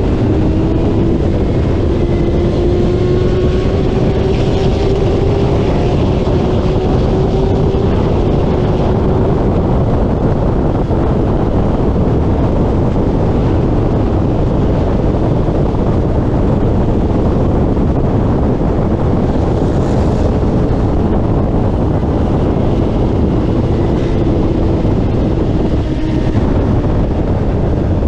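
Racing motorcycle running hard at speed, heard from a camera mounted on the bike: the engine's tone climbs slowly through the first eight seconds, under a heavy rush of wind on the microphone.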